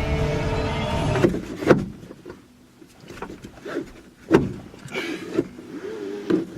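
A steady low rumble stops about a second in, followed by a scatter of sharp knocks and clicks, like handling and door sounds.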